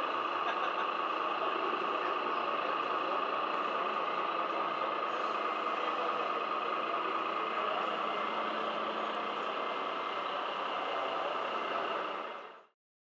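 Radio-controlled model trucks running: a steady mechanical whine and engine-like drone with no pauses, fading out near the end.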